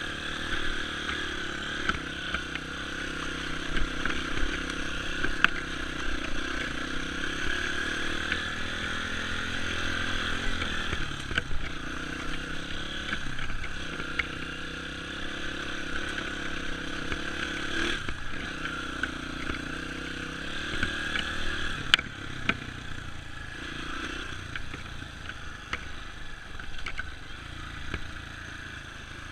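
Dirt bike engine running along a trail, its pitch rising and falling as the throttle opens and closes, with scattered clicks and knocks.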